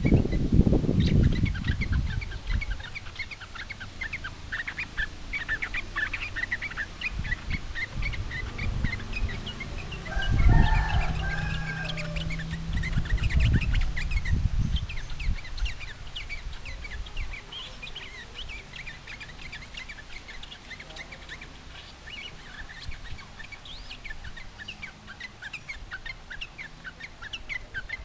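Yellow-vented bulbul singing: a steady stream of short, quick, bubbling chirps. Low thumps come near the start and again around the middle, where a brief held call from another bird also sounds.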